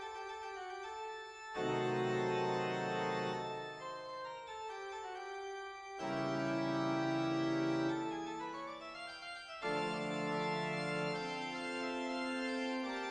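Organ music accompanying a silent film: sustained full chords that swell in three times, about four seconds apart, with a short run of moving notes between the second and third.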